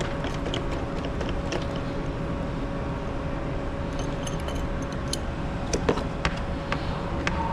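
Steady machine hum with a faint constant tone, with scattered light clicks and ticks of metal parts and tools being handled.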